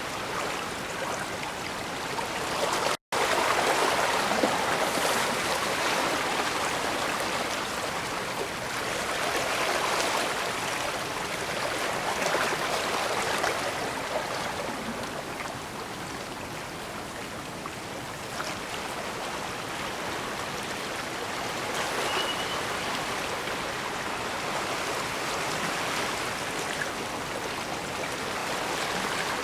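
Water from the bay washing against the shore, a steady rush that swells and eases every few seconds. The sound cuts out for an instant about three seconds in.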